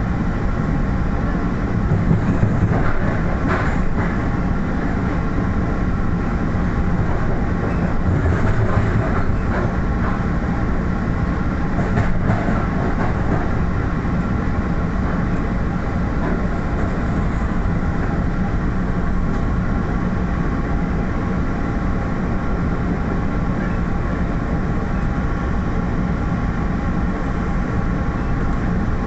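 MBTA commuter rail train in motion: a steady rumble with running-machinery hum and a few faint rail clicks.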